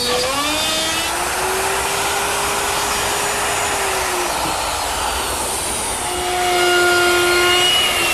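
Handheld router with a guide collar and a 3/8-inch straight bit cutting a handhold out of wood along a template, the motor's steady whine dipping in pitch under load near the start and again about four and a half seconds in. Near the end a high whine slides downward.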